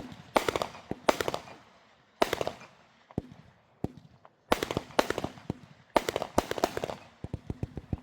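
Fireworks going off: quick clusters of sharp bangs and crackles with short gaps between them, then a fast run of smaller pops, about five a second, starting near the end.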